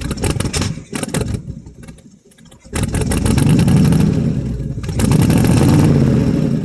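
1967 Chevy C10's 305 small-block V8, running after sitting about three years, idling through homemade glass-pack exhaust with flex pipe, then revved up twice, each time held for a second or two.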